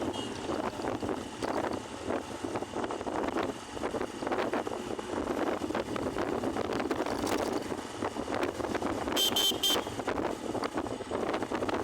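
Riding noise on a Honda CB Shine 125 motorcycle: wind rushing over the microphone with traffic noise. A vehicle horn beeps three quick times about nine seconds in.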